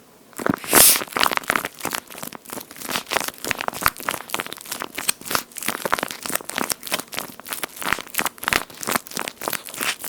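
Water-filled toast-shaped squishy toy being squeezed and kneaded by hand, giving a dense run of wet crackly squelches that starts about half a second in.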